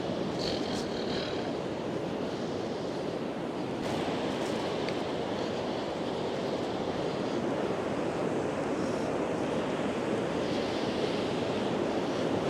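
Sea surf breaking and washing up a sandy beach as the tide comes in: a steady rushing noise.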